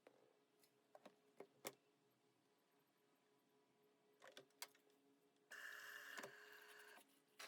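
Quiet household handling sounds: scattered light clicks and taps, then a steady hiss of about a second and a half near the end.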